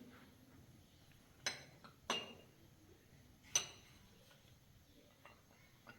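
Three sharp clinks of hard objects knocking together, each with a short ring: the first about a second and a half in, the next half a second later, the last a second and a half after that. A few faint taps follow.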